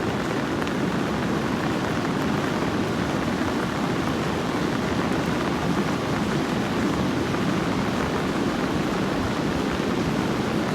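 A river in flood, the swollen Poonch, its water rushing past in a steady, unbroken noise.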